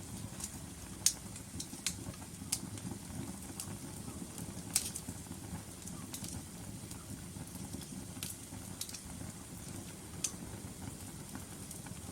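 Logs burning in a fireplace: a low, steady rumble of the fire with scattered sharp crackles and pops. The loudest pop comes about a second in, with another near five seconds.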